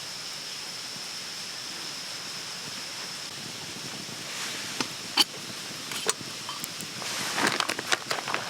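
Outdoor forest ambience: a steady hiss with a constant high-pitched tone running under it, broken by a few sharp clicks about five and six seconds in, then a busier run of clicks and rustling from about seven seconds in.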